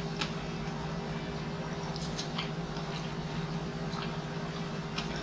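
Close-miked chewing of food, with scattered short wet mouth clicks and smacks, over a steady low hum.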